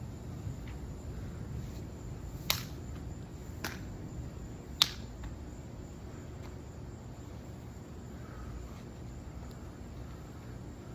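Three short sharp clicks, spaced about a second apart, over a steady low background hum.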